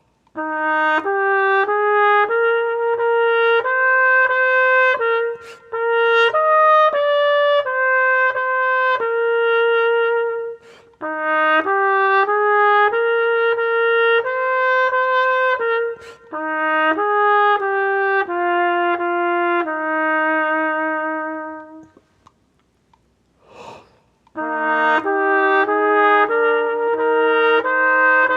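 Solo trumpet playing a slow melody, one note at a time, in phrases of a few seconds with short pauses for breath between them and a longer pause near the end before it starts again.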